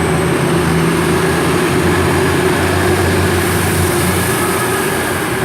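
Diesel engines of an East Midlands Trains Class 222 Meridian multiple unit running at a station platform, a loud, steady low hum.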